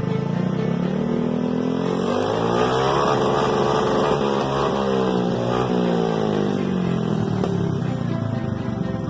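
Aprilia SR150 scooter's single-cylinder engine through an aftermarket performance exhaust, revved in one long sweep: the pitch climbs for about four seconds and then falls back.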